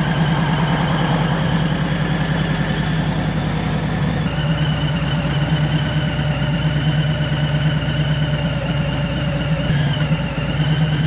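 V-twin motorcycle engine running steadily at low revs, its pitch holding constant throughout.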